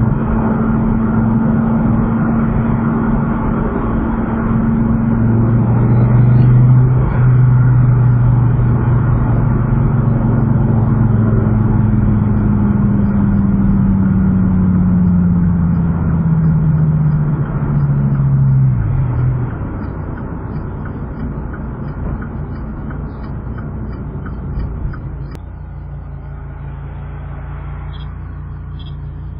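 Dodge Viper's V10 engine droning at highway cruise with road and tyre noise, heard from inside the cabin. A bit over halfway through the engine note falls steadily as the car slows, and near the end it settles into a quieter, steady idle with the car at a stop.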